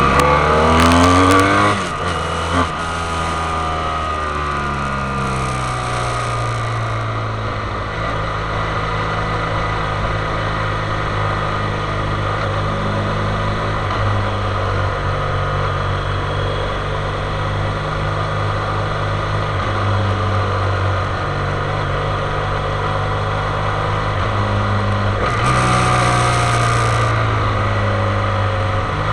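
Motorcycle engine running throughout, its pitch stepping up and down with throttle and gear changes; it revs up in the first couple of seconds and again briefly near the end.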